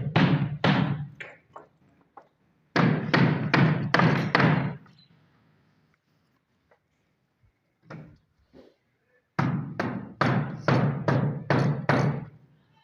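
A run of heavy, sharp thumps, about three a second, in three bursts with pauses of a few seconds between them.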